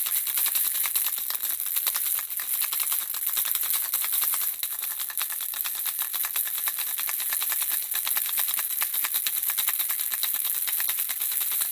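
Handheld baby rattle shaken continuously, the small pellets inside clicking rapidly in a dense, steady stream.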